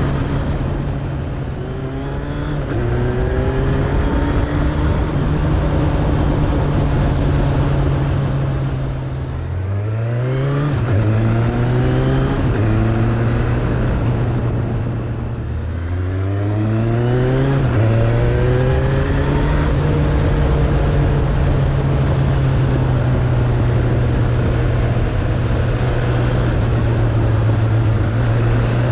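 Suzuki Bandit 1200's inline-four engine running under way, its note holding steady for long stretches. Twice, about nine and fifteen seconds in, the engine drops off, then revs up quickly as the throttle opens again. A steady rush of wind and road noise runs underneath.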